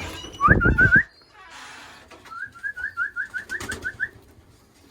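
A person whistling to call racing pigeons into the loft: two rising whistles with a loud burst of low noise under them about half a second in, then a quick run of short, rising chirp-whistles, about six a second, for around two seconds.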